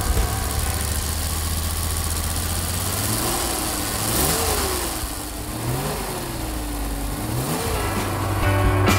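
1967 Aston Martin DB6 Vantage's straight-six engine running steadily, then revving up and dropping back three times, about four, six and seven and a half seconds in.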